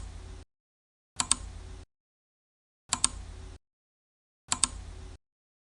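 A short sound effect repeats about every second and a half, each time a sharp double click followed by a brief hiss that cuts off abruptly. It works as a thinking-time timer tick while waiting for the answer.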